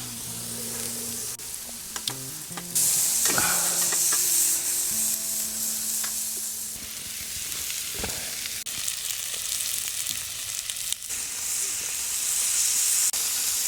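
Hamburger patties and onions sizzling as they fry over a campfire, with scattered clicks and knocks; the sizzle grows louder about three seconds in.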